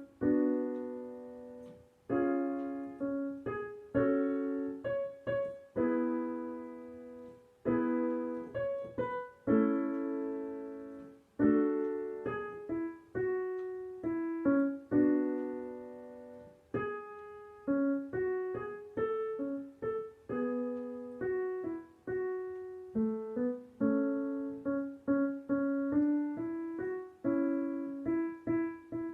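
Piano music: single notes and chords struck one after another, each ringing and fading before the next.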